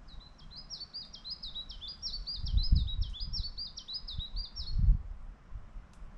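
A songbird singing a long run of about a dozen quick, repeated high notes that stops about five seconds in. Two brief low rumbles come through partway in and near the end of the song.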